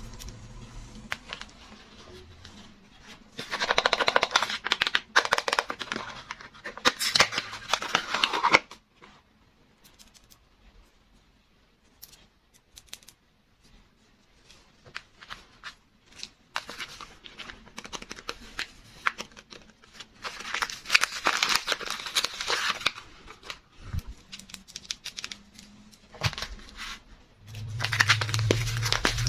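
Soap packaging being unwrapped by hand, with crinkling, rustling and tearing of the wrapper in three louder stretches and small clicks and taps in between.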